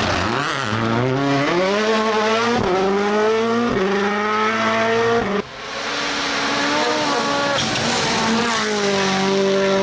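Rally car engines at full throttle: one accelerates hard through the gears, its pitch climbing and dropping back at each upshift, then about halfway the sound cuts abruptly to another car's engine held at high revs.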